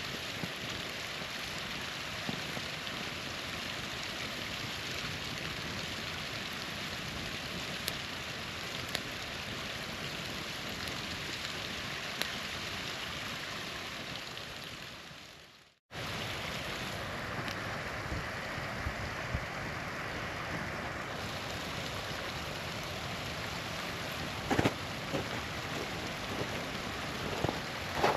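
A small waterfall rushing steadily, with a campfire crackling and giving a few sharp pops, the loudest near the end. About 15 seconds in, the sound fades out to a moment of silence and then cuts back in abruptly.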